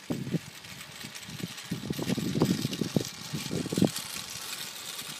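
Gusty wind buffeting the microphone: irregular low rumbling bursts that swell and fade, strongest about two to four seconds in.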